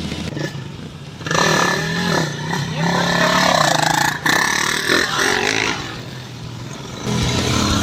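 Dirt bike engines revving in a loud stretch that starts about a second in and fades a second or two before the end, with people's voices mixed in and a sharp click near the middle.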